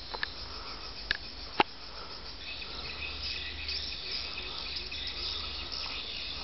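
Dense, high-pitched chirping of small animals, thickening after about two seconds, over a low rumble. Two sharp clicks come in the first two seconds.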